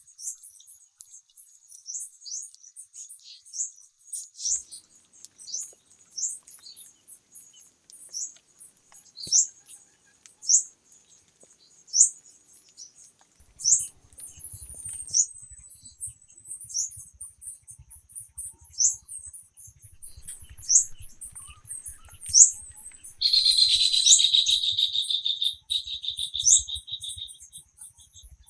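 Songbird giving short, high, downward chirps over and over, about one every second or so. Near the end a louder buzzy trill of about four seconds comes in.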